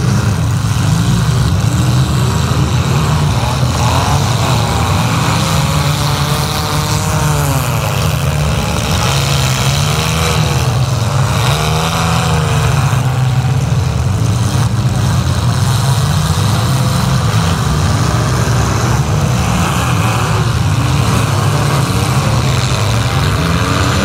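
Engines of several pro-stock compact demolition-derby cars running and revving together, their pitch sweeping up and down over a steady low drone.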